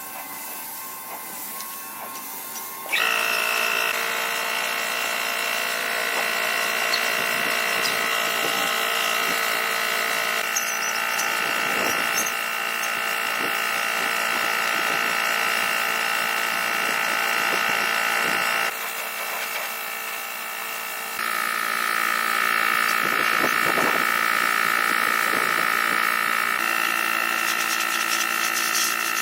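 Small electric power tool motor running with a steady whine, stepping up in pitch and loudness about three seconds in and changing speed a couple more times later on.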